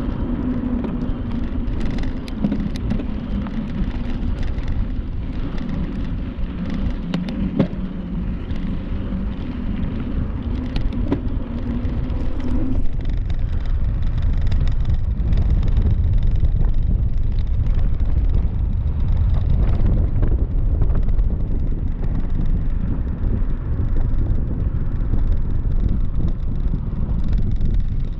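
Bicycle riding noise: wind rushing over the microphone and tyres rolling on a trail, with scattered small clicks and rattles. A steady hum runs for about the first half and stops abruptly, after which the low wind rumble gets louder.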